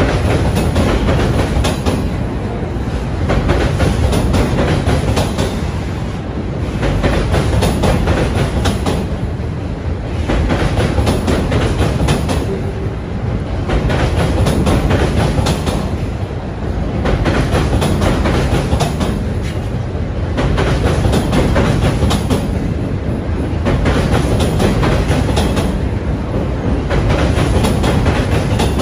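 Freight train of autorack cars rolling across a steel girder railway bridge overhead: a loud, continuous rumble and rattle with sharp clicking of wheels over the rails, swelling and easing about every three seconds.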